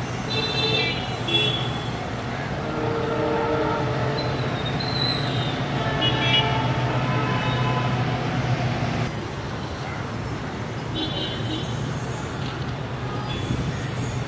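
Passenger train running away along the track with a steady low rumble, and several short, high horn toots over it.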